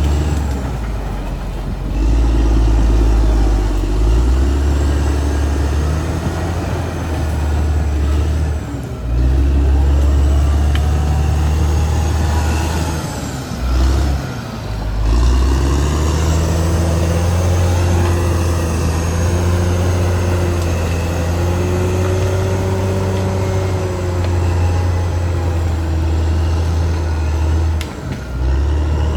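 Caterpillar D6R XL crawler bulldozer's diesel engine running under load, its pitch rising and falling as the throttle changes, with brief dips a few times.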